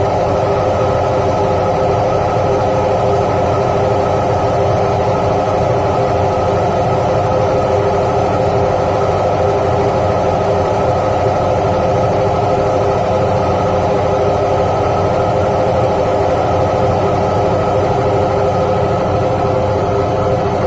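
IFB T2400 washing machine spinning its drum with a loud, steady mechanical noise and a constant hum of several tones. The noise points to a worn drum bearing and oil seal.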